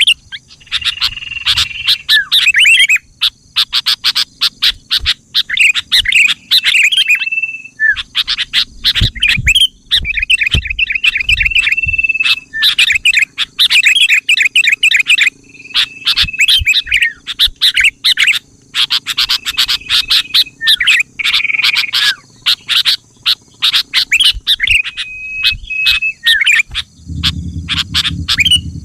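Sooty-headed bulbul (kutilang) song, phrase after phrase of chattering notes and short steady whistles, with brief pauses between phrases. A low hum comes in near the end.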